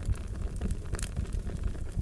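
Fire crackling: a low rumble of burning wood with scattered sharp pops, one louder pop about a second in.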